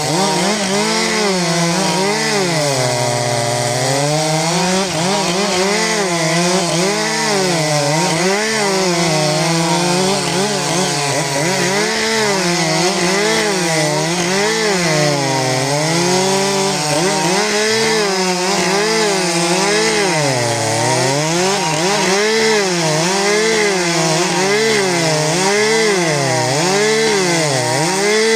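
Two-stroke chainsaw running at full throttle while cutting through wood. Its engine pitch keeps dipping as the chain bogs in the cut and then climbing back, over and over.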